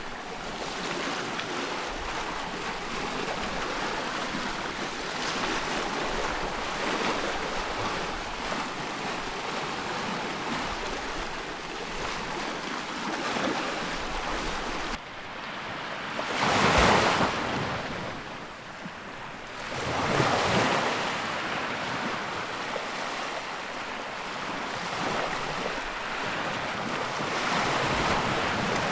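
Sea waves washing in as a steady surf hiss, with two louder breaking waves a little past halfway and another swell near the end.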